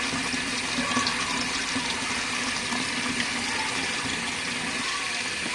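Water running steadily into a compact RV washing machine's tub as it fills with warm water for the final rinse, with a low steady hum underneath.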